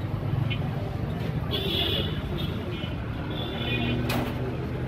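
Street traffic: a motor vehicle engine running close by with a steady low hum, with a couple of brief higher tones over it.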